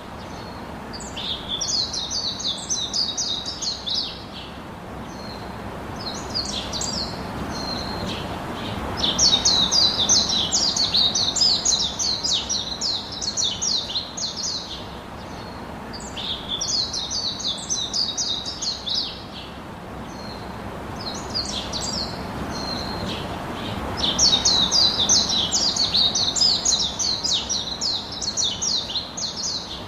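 A songbird singing: phrases of rapid, high, jumbled notes lasting a few seconds each, repeated about five times with short pauses between, over a steady low background hiss.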